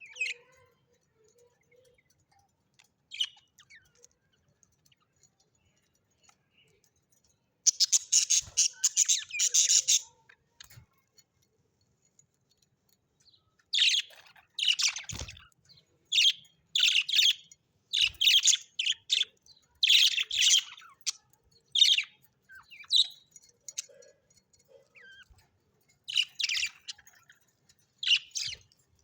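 Parrots chirping and chattering in bursts of high calls. It is mostly quiet at first with a couple of single chirps, then comes a dense spell of chatter, and short bursts follow every second or so after a pause.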